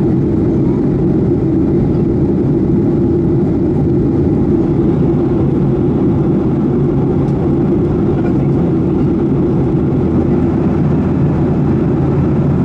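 Steady cabin noise of a Boeing 737-800 climbing out after take-off: the CFM56-7B engines and rushing airflow heard from a passenger seat, an even low rumble with no change.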